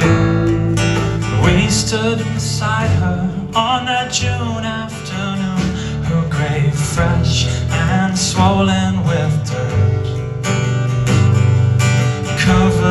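Live band music with a strummed acoustic guitar and other sustained instruments playing between sung lines of a slow song.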